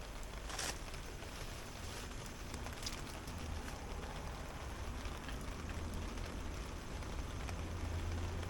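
Steady rain falling, an even hiss with a few sharp ticks, over a low rumble that grows stronger in the second half.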